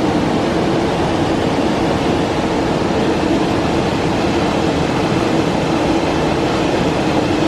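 Steady rush of water falling over rock, loud and unbroken.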